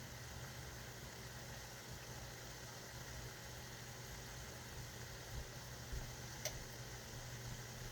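Low, steady machine hum with an even hiss, and one short click about six and a half seconds in.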